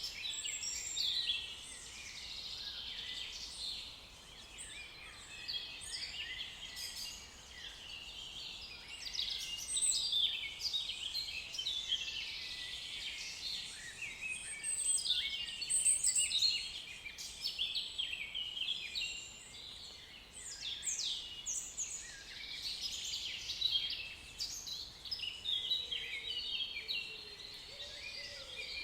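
Many songbirds singing and chirping over one another, a constant tangle of quick high notes and trills. A faint lower call comes in near the end.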